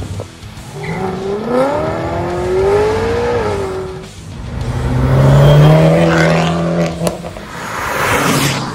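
Car engines revving hard as modified cars accelerate along the road one after another. The first climbs steadily in pitch and then drops; a second, louder engine drones low through the middle; and near the end a car rushes past close by.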